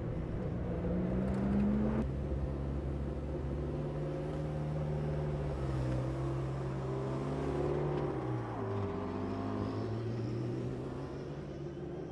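A McLaren MP4-12C's 3.8-litre twin-turbo V8 running under way. Its pitch climbs, then drops abruptly about two seconds in, and steps up and down several more times.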